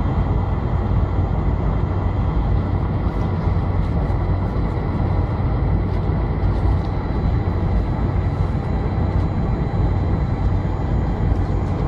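Boeing 747 engines and airflow heard inside the passenger cabin: a loud, steady drone with a deep rumble and a thin constant whine above it.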